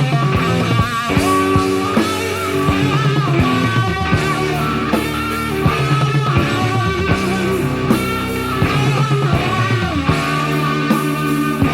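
Hard rock band playing an instrumental passage: electric guitar lines over bass and a steady drum beat, with no vocals.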